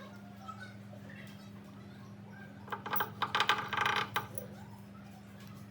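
Small metal pieces clinking and rattling together for about a second and a half, near the middle, over a steady low hum.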